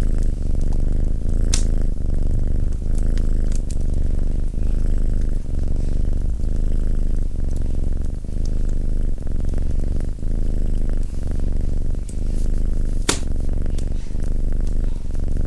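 Domestic cat purring close to the microphone: a steady low rumble that breaks briefly about once a second with each breath. A few sharp crackles from the fire sound over it, the loudest about 13 seconds in.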